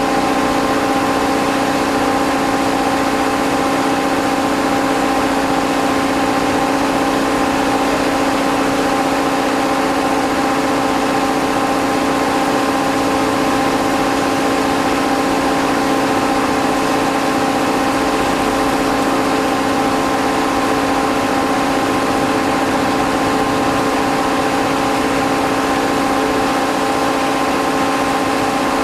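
Steady machine hum: several constant tones over an even hiss, unchanging throughout.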